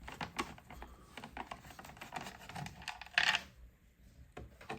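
Small, irregular clicks and taps of a Torx screwdriver working the screws that hold a car door speaker to its mounting frame, with one louder rattle about three seconds in.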